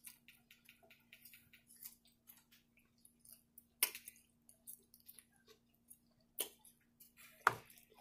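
Close-up eating sounds from baked chicken: faint, irregular wet clicks of chewing and lip smacking, with three sharper smacks about halfway through and near the end.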